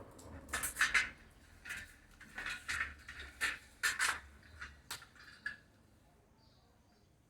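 Irregular clicks and clattering knocks of hard parts and tools being handled while the fan's base is worked on, about a dozen sharp knocks over five seconds. After that it goes quiet.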